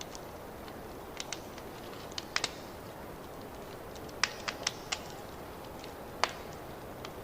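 Fireplace fire crackling: scattered sharp pops and snaps over a steady low hiss, with a quick cluster of pops about midway and a single loud pop later.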